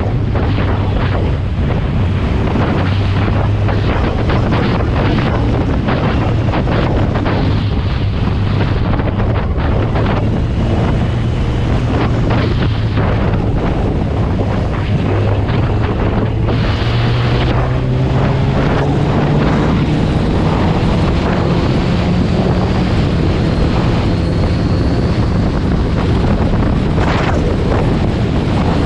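Heavy wind noise on the microphone over a superbike's engine running under way. The engine note climbs as the bike speeds up, about two-thirds of the way through.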